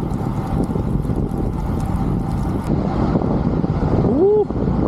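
Wind rushing over the microphone during a bicycle ride, a steady low rumble. About four seconds in, a brief rising pitched sound cuts through it.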